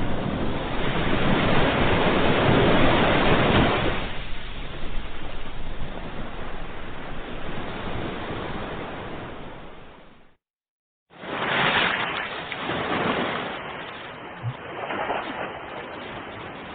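Ocean surf: waves break and wash in, with one big surge over the first few seconds that slowly fades. The sound cuts out entirely for under a second about ten seconds in, then returns with another wave surge and smaller ones after it.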